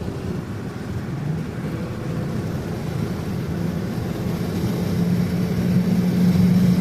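Car engine running steadily, growing louder and a little higher in pitch over the last two seconds.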